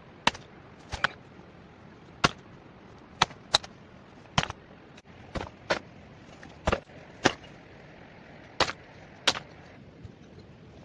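Chopping: about a dozen sharp blows of a hand tool striking wood, irregularly spaced at roughly one a second, some in quick pairs, stopping about a second before the end.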